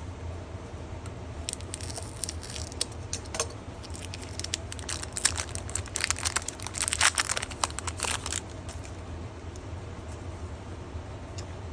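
Foil wrapper of a Lorcana trading-card booster pack crinkling and tearing as it is opened, a dense run of crackles from about a second and a half in until about eight seconds in, over a steady low hum.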